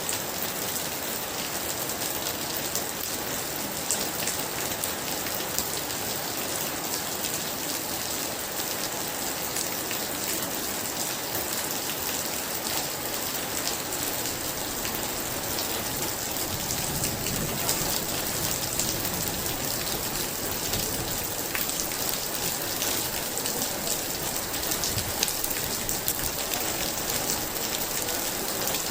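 Very heavy rain falling steadily, a dense hiss dotted with many sharp individual drop hits.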